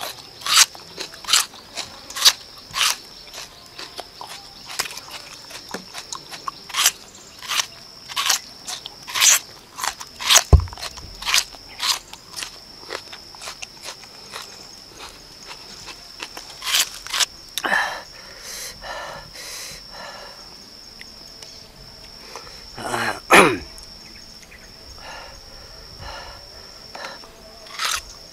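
Raw red onion crunching as it is bitten and chewed close to the microphone: quick, irregular crisp crunches that thin out later, over a steady high-pitched hum.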